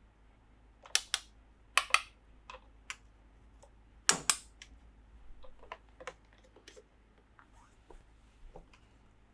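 Sharp clicks and taps of small hard plastic toy parts being handled and set down: three loud double clicks in the first half, then a scatter of fainter ticks.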